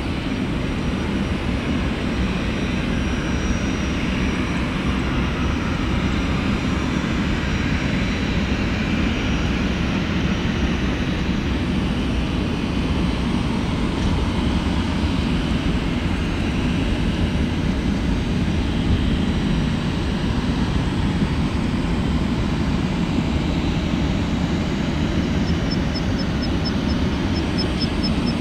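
Boeing 737-400's CFM56 jet engines running with a steady, unchanging roar that is heaviest in the low end. Near the end a faint, high, quick ticking sounds over it.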